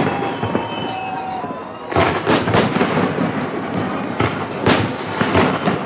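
Fireworks display: aerial shells bursting in a run of sharp bangs with crackle between them, the bangs coming thick and fast from about two seconds in.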